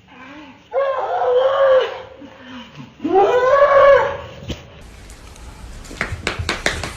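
An animal giving two drawn-out calls, each about a second long, with a rising then level pitch, followed by a few sharp clicks or knocks near the end.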